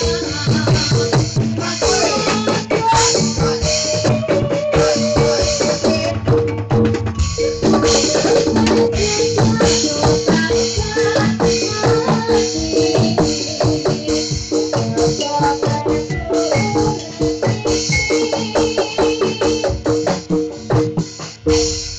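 Javanese gamelan playing a jathilan piece, kendang drums driving a dense, fast rhythm over ringing metallophones and gong chimes. The piece closes with a final stroke near the end, one tone left ringing.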